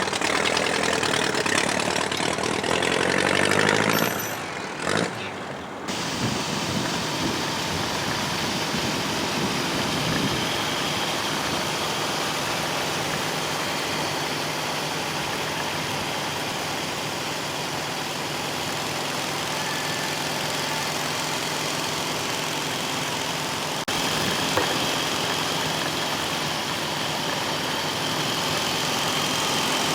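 Vintage motorcycle engine running steadily, with a brief break about 24 seconds in.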